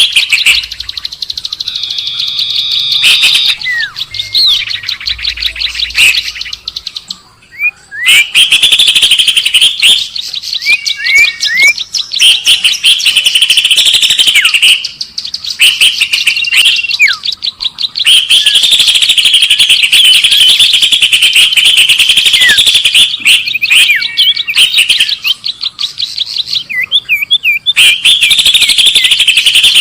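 Recorded birdsong played as a bird lure: long runs of loud, rapid, high-pitched chattering trills, broken by short pauses that carry brief whistled upward slurs.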